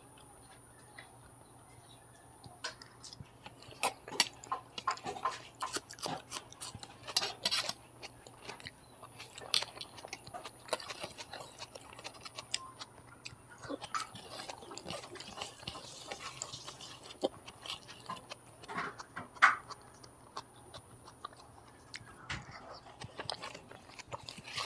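Close-miked eating sounds: irregular wet chewing and lip-smacking clicks from someone eating Maggi noodles with fried eggs. The clicks start a couple of seconds in and come at uneven intervals and strengths, with a few light touches of cutlery and fingers on a steel plate.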